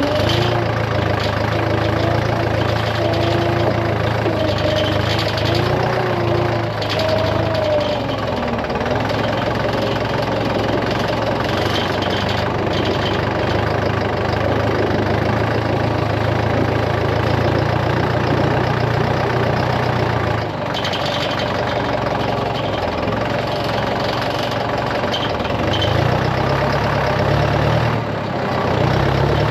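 Vehicle engine running steadily, with a short dip about 20 seconds in and a wavering pitch near the end.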